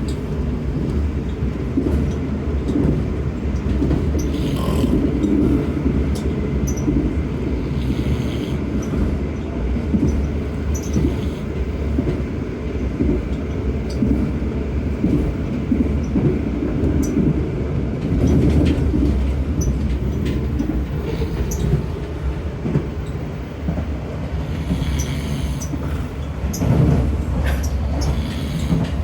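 Passenger train running on the rails, heard from on board: a steady low rumble of wheels and carriage, with scattered small clicks and faint squeaks.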